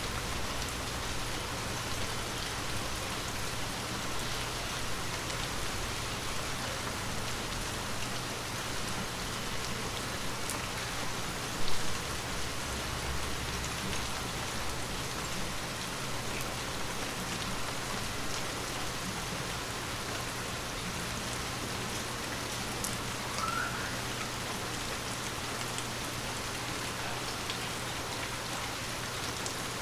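Steady rain falling, with faint scattered drop ticks and a single thump about twelve seconds in.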